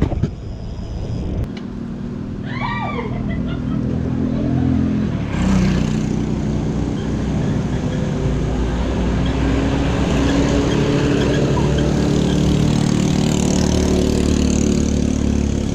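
A motor vehicle's engine running steadily, with road and wind noise. It gets louder about five seconds in and cuts off suddenly near the end. A few short high chirps sound about two and a half seconds in.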